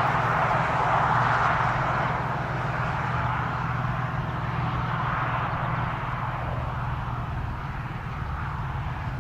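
Freight train rolling by: a steady mechanical rush over a low drone, easing slowly as it goes.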